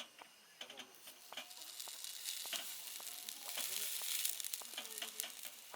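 Food sizzling in a hot pan. The sizzle builds from about a second in, is loudest a little past the middle, then eases, with scattered light clicks and taps.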